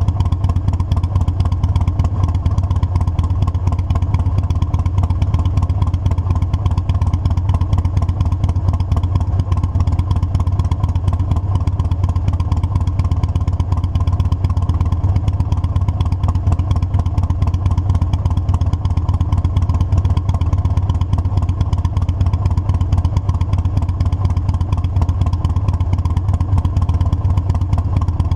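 Harley-Davidson motorcycle's V-twin engine running steadily under way, a constant low drone with no revving or gear changes.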